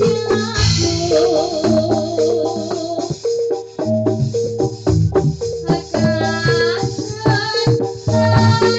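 Jathilan ensemble music played loud through the sound system for a sound check: an electronic organ melody with held and wavering notes over quick, steady percussion strikes.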